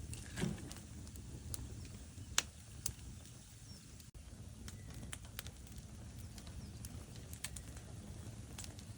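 Logs burning in a fireplace: a steady low rumble of flames with scattered sharp crackles and pops. The loudest pop comes about two and a half seconds in, with a longer muffled pop about half a second in.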